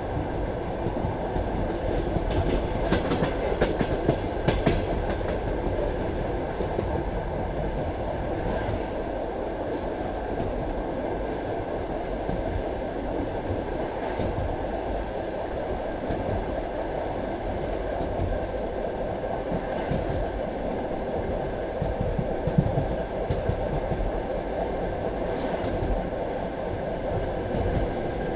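Passenger train carriage running along the track: a steady rumble of wheels on the rails, with scattered clicks as the wheels pass over rail joints.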